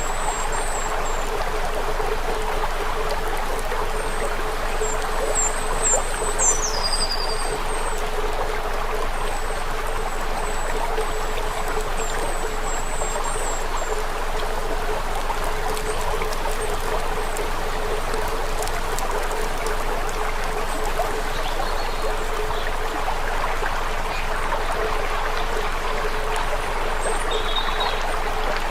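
Steady rushing, water-like noise, with short high chirps in the first half and a falling whistle about six seconds in.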